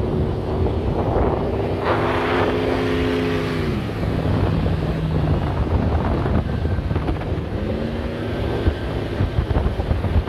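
4x4 engines running as the vehicles drive across beach sand, with wind buffeting the microphone. An engine's pitch drops sharply about four seconds in as it comes off the throttle, then climbs again as it revs back up around eight seconds in.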